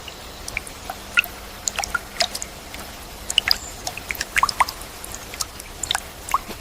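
Water dripping: many short, irregular drops plinking over a steady background hiss.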